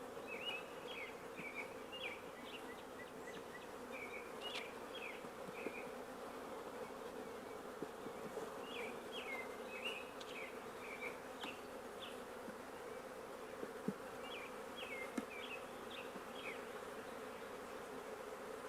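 Honey bees buzzing in a steady hum, many bees in the air around an opened hive. Short high chirps come in clusters over the hum.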